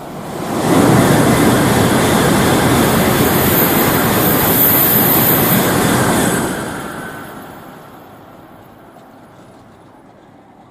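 Tokaido Shinkansen train passing through the station at high speed without stopping. A loud rush of air and wheel noise builds quickly and is at full strength from under a second in, holds for about five and a half seconds, then fades away over the next two.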